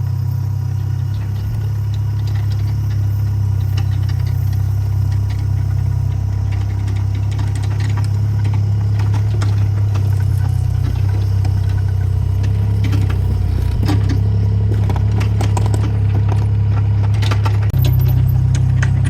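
Excavator's diesel engine running steadily, with scattered knocks and rattles.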